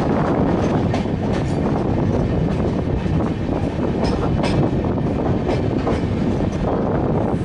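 Rajdhani Express passenger coaches running along the track, a steady rumble of wheels on rail with scattered clicks from rail joints.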